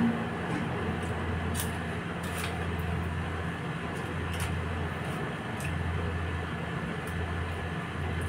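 A steady low hum with a few faint, crisp crunches, scattered about a second apart, as a crunchy vegetable-flavoured snack stick is chewed.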